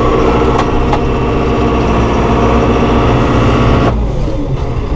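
John Deere 5100E tractor's four-cylinder diesel engine running steadily. About four seconds in, the higher part of its note drops away and it turns a little quieter.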